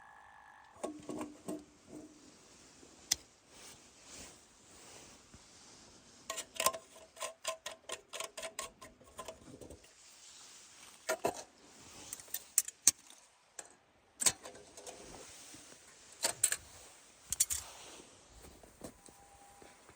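Camp gear being handled: scattered clicks and knocks, with a quick run of small knocks, about three a second, starting about six seconds in.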